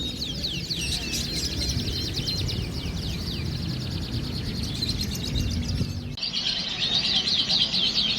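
Many caged songbirds singing at once in a dense, fast chorus of overlapping chirps and trills, over a low hubbub of crowd noise. The sound changes abruptly about six seconds in.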